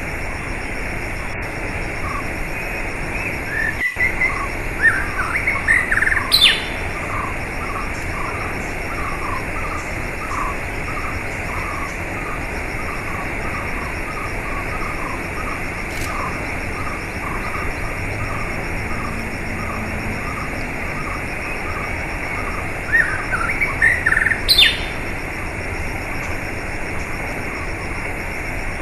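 Small birds chirping over a steady rush of running water: a long string of short, evenly spaced chirps, about two a second, with two louder flurries of rising calls, one about five seconds in and one near the end.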